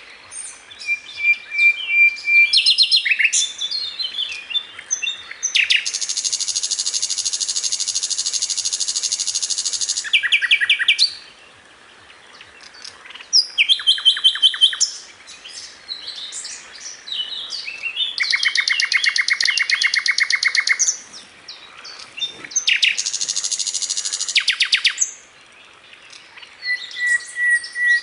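A sikatan londo flycatcher singing continuously. Its phrases are fast, high trills and chirps, some held for several seconds as one rapid rattle, repeated with short pauses between.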